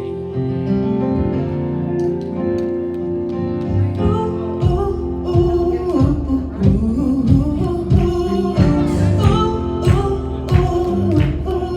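Live gospel worship music: held chords, with drums coming in about five seconds in and singing after that.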